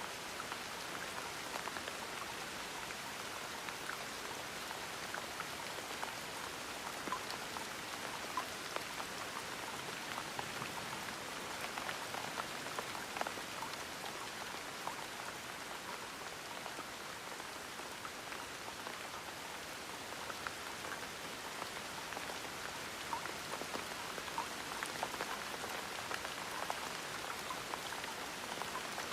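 Steady gentle rain falling, an even hiss with many small drops pattering on a surface.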